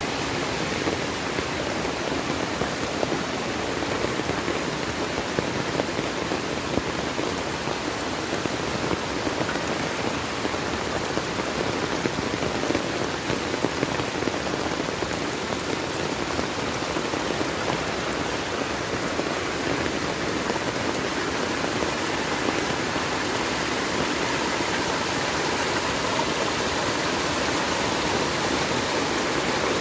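Heavy rain falling steadily: a dense, even hiss with many small sharp peaks.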